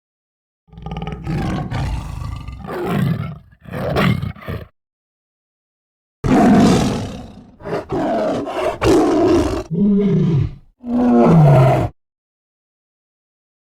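Animal roars and growls in two loud groups separated by about a second and a half of silence; the last calls slide down in pitch.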